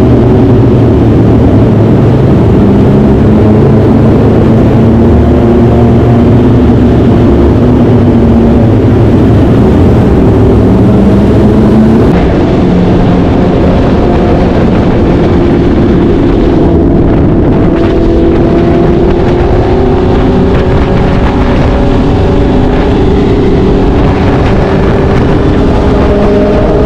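BMW S1000 sportbike's inline-four engine running at highway speed under steady throttle, with heavy wind rumble on the microphone. About halfway through the sound drops slightly, and later the engine pitch climbs gradually as the bike speeds up.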